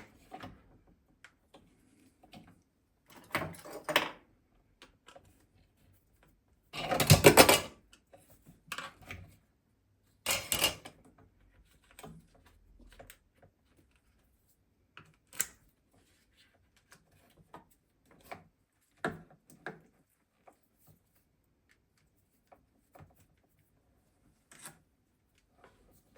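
Parts and tools being handled during a mower repair: scattered clicks and knocks, with a louder rattling scrape about seven seconds in and shorter ones near four and ten and a half seconds.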